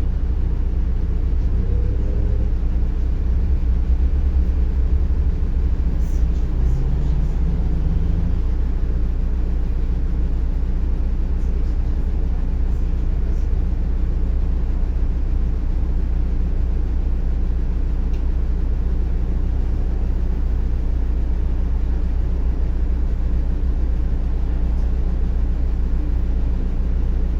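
Interior of a MAZ-105 articulated city bus under way: steady low engine and road rumble, with a couple of short rising engine notes in the first several seconds as it pulls away.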